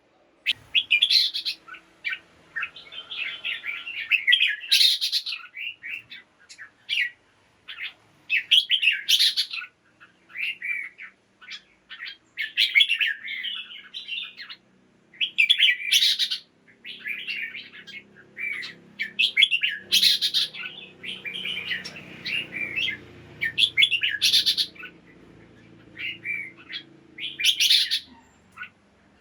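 Red-whiskered bulbul song: bubbly chirping phrases with a louder, sharper note about every four seconds.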